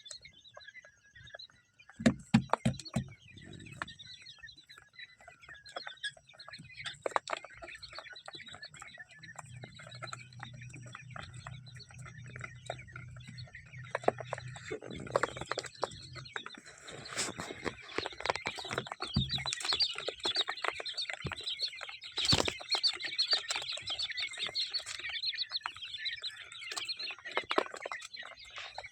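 Quail chirping: many short, high calls overlapping, growing busier and louder in the second half. A few sharp knocks come about two seconds in, and a low hum runs for several seconds in the middle.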